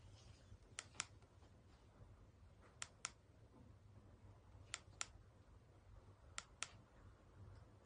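Four pairs of sharp clicks, the two clicks in each pair a quarter-second apart and the pairs about two seconds apart, over a faint low hum.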